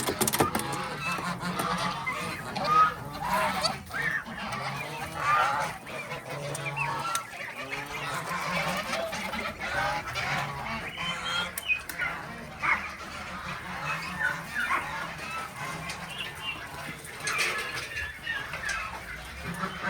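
A flock of farm birds calling over one another, with many short, overlapping calls and no pause.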